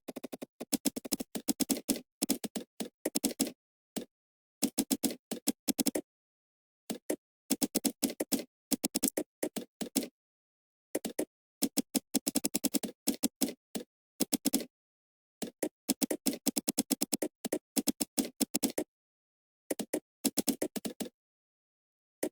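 Computer keyboard typing in quick irregular bursts of keystroke clicks, with short pauses between the bursts.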